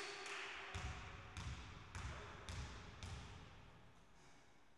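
Basketball dribbled on a hard court floor: a steady run of bounces, a little under two a second, growing fainter.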